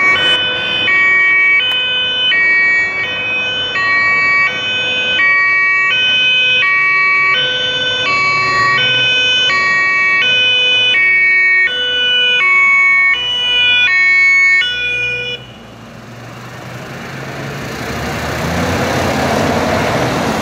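German two-tone emergency siren (Martinshorn) on a THW multipurpose truck, alternating steadily between two notes about every 0.6 s. It cuts off about fifteen seconds in. Vehicle and road noise then swells louder.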